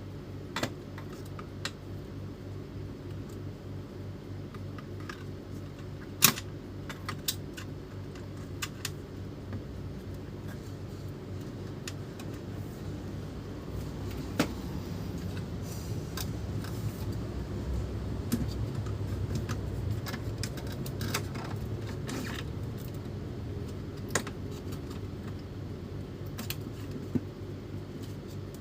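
Scattered small clicks and taps of plastic and metal parts being handled while an inkjet printer is worked on, over a steady low hum. The sharpest click comes about six seconds in.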